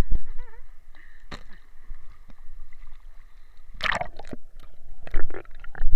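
Water splashing and sloshing in a river, with the loudest splash about four seconds in and a few smaller splashes near the end.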